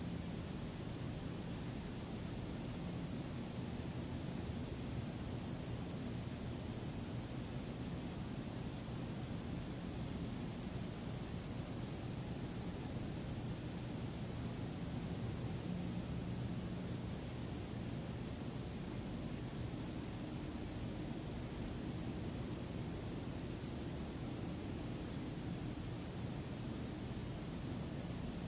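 Night insect chorus, a steady, unbroken high-pitched buzz that holds level with no pauses.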